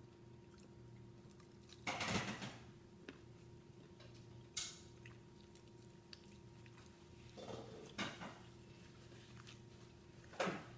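Eating sounds at a dinner of fried chicken: quiet chewing, with a few short, louder mouth and eating noises about two seconds in, around eight seconds and near the end, over a steady low hum.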